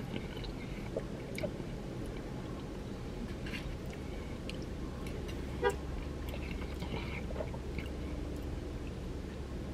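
A man chewing macaroni and cheese in a car cabin, with light clicks of a metal fork against a foam cup over a steady low cabin hum. One short pitched beep, the loudest sound, comes a little past halfway through.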